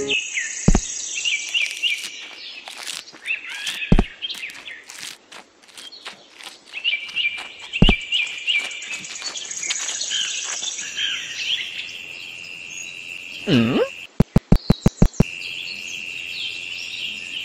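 Birds chirping and twittering in quick repeated high notes, with a steady high trill joining about two-thirds of the way through. A few sharp clicks are scattered through it, and near the end comes a quick run of about seven loud pulses.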